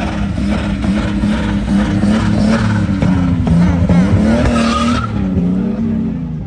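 Car engine held at high revs while the tyres skid and squeal. The tyre noise cuts off about five seconds in and the engine eases down.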